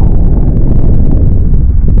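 Strong wind buffeting the microphone in a snowstorm: a loud, steady low rumble with small crackles.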